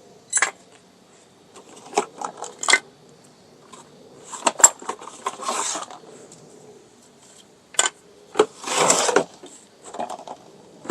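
Metal drum-brake parts (shoes, springs and hardware) clinking and clattering as they are handled, with scattered sharp clicks and two longer rasping noises about five and nine seconds in.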